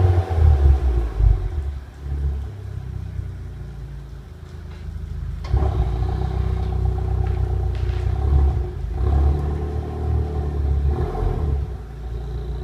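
Opel Astra J's 1.4 turbo four-cylinder running through a handmade stainless-steel straight-through exhaust, with a deep low exhaust rumble. There are a few loud blips in the first two seconds, then it settles quieter, and about five and a half seconds in it steps up to a louder, steady rumble.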